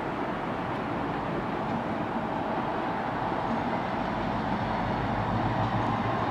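A train approaching with its engine running: a steady rumble, with a low hum that strengthens over the last couple of seconds as it draws closer.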